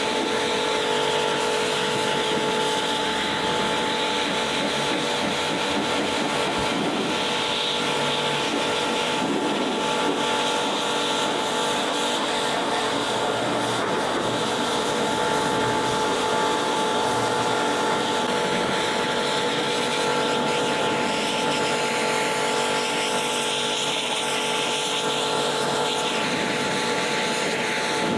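Pressure washer running steadily while its spray rinses a truck's bodywork: an even hiss of water with a constant motor whine underneath.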